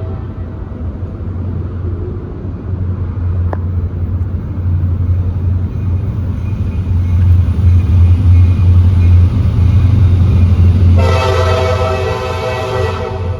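Freight train passing at a grade crossing: the low rumble of the diesel locomotives swells to its loudest through the middle. A multi-note locomotive horn blast of about two seconds sounds near the end.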